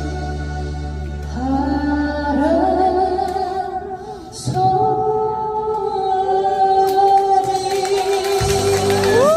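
A woman singing a slow Korean trot song over an accompaniment, holding long notes; near the end her voice slides up into a held note with vibrato.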